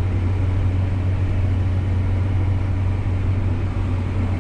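Tractor engine running steadily under load, heard from inside the cab as a constant low drone.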